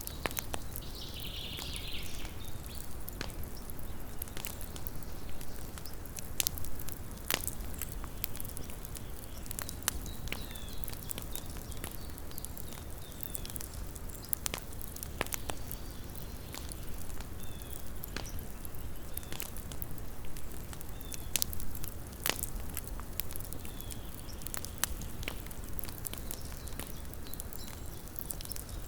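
Wood campfire crackling, with irregular sharp pops and snaps over a low, steady rumble of burning.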